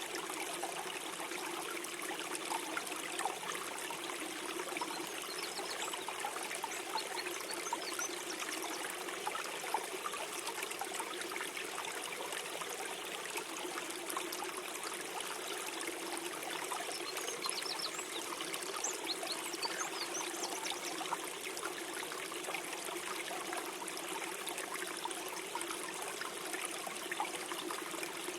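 Gentle stream flowing steadily, a continuous gurgling and trickling of running water.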